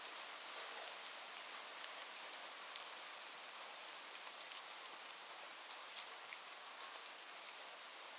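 Steady rain falling, an even hiss with scattered sharp ticks of individual drops landing close by.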